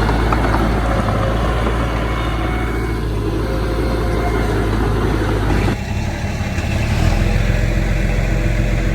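Diesel engine of heavy earthmoving machinery running steadily, with the engine note changing abruptly about six seconds in.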